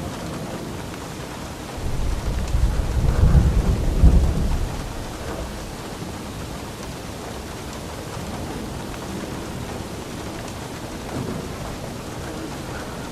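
Steady rain with a roll of thunder rumbling in about two seconds in, loudest about four seconds in, then fading back into the rain.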